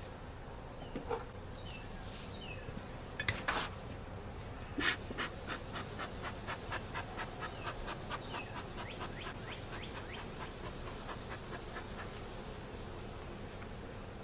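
Honeybees buzzing around an open hive, with a few sharp clicks and then a run of quick clicking and scraping from hive frames and tools being handled, about three to four clicks a second.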